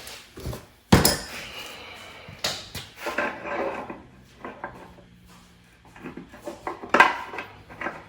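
Metal tools and parts being handled: irregular clanks and clatter, with a sharp knock about a second in and another near seven seconds.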